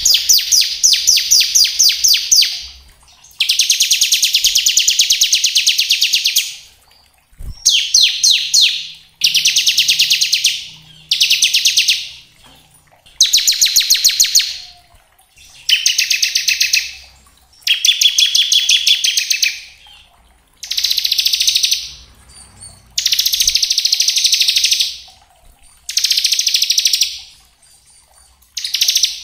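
Bar-winged prinia (ciblek) singing its fast machine-gun-like 'ngebren' trill. About a dozen bouts of one to three seconds each come in quick succession, separated by brief pauses.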